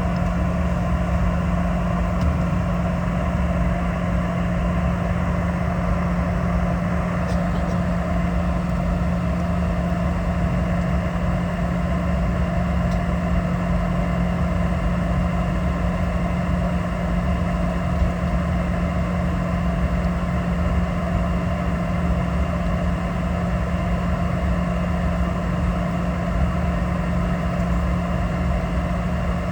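Steady drone of a Boeing 717-200's rear-mounted BR715 turbofan engines heard inside the passenger cabin, a constant low hum over a broad rumble and hiss that neither rises nor falls.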